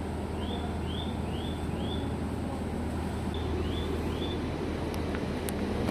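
Electric train standing at the platform with a steady low hum, shortly before departure. Over it, a run of short rising chirps comes about twice a second, then another run a little later, like a small bird calling.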